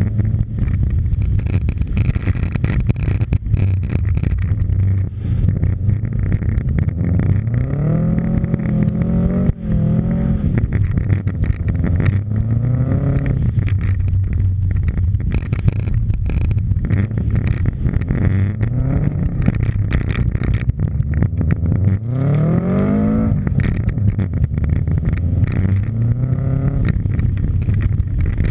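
Subaru Impreza WRX STI rally car's turbocharged flat-four engine driven hard on snow. The revs climb and drop several times through the gears over a constant low rumble.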